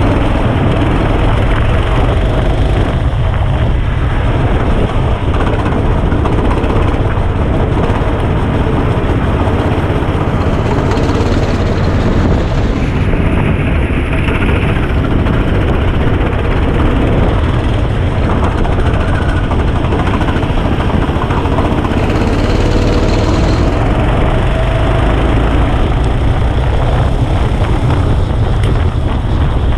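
Go-kart engine running steadily at speed, mixed with wind rush, recorded onboard by a muffled action camera.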